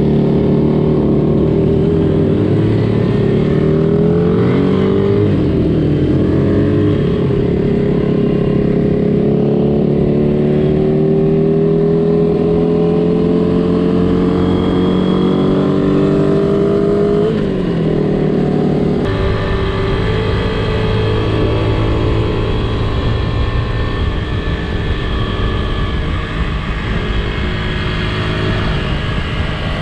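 Small vintage Honda motorcycle engine running under way. Its pitch climbs slowly as it pulls, then drops a little past halfway. The sound changes abruptly soon after and settles into a steadier run.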